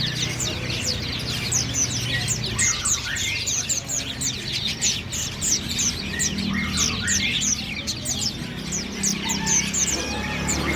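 Parakeet chirping in a rapid, continuous chatter of short falling chirps.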